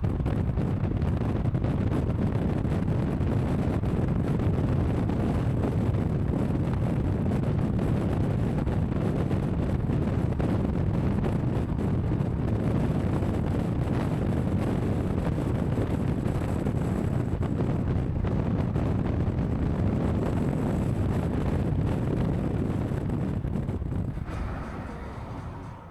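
Steady low rumble of a car driving at speed, road and engine noise with some wind, fading out near the end.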